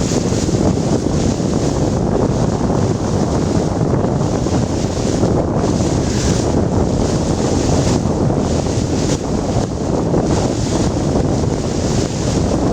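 Wind buffeting the microphone steadily and loudly, over the wash of water from a boat under way.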